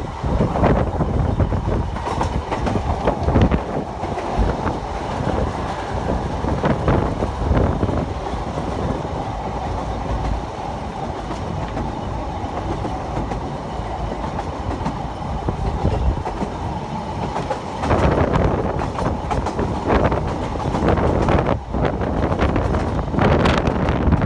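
Narrow-gauge passenger train running, heard from inside a carriage: a steady rumble with irregular clatter of wheels over rail joints, growing louder for the last several seconds.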